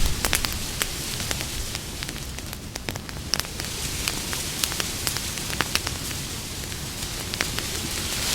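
Campfire burning, crackling with irregular sharp pops and snaps over a steady hiss.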